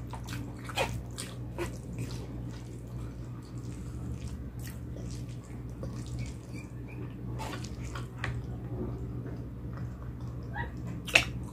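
Eating sounds close to the microphone: wet chewing and smacking with scattered sharp clicks, over a steady low hum.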